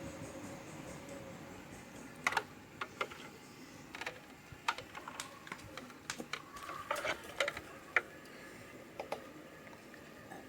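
A series of sharp, light clicks and taps at an irregular pace, about a dozen spread over several seconds, like small hard objects knocking together or being handled.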